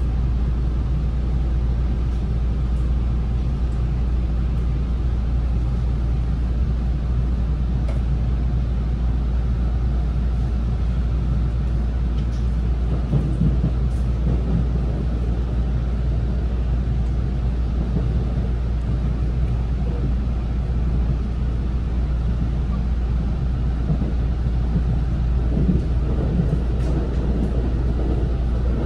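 Local electric train running along the line, heard from inside the carriage: a steady low rumble of wheels on the track.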